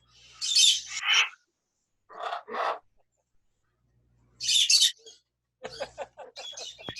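Pet parrots calling in separate bursts: two calls within the first second, two more around two seconds in, another at about four and a half seconds, then a quick run of short notes near the end.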